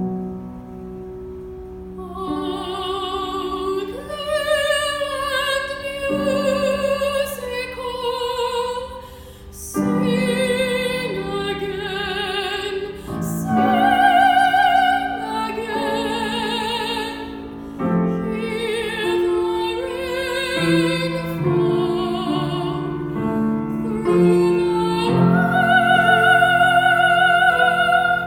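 A teenage girl singing a classical art song with vibrato, accompanied by piano. The piano plays alone briefly before the voice comes in about two seconds in.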